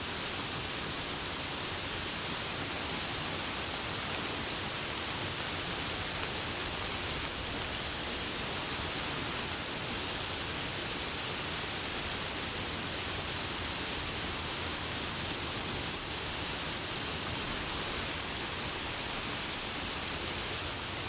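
Rain falling in a steady, even hiss, with no single drops or thunder standing out.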